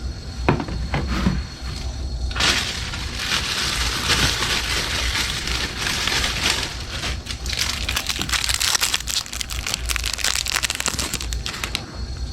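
Dense crinkling and crackling full of small clicks, starting a little over two seconds in and stopping shortly before the end, after a few sharp knocks at the start.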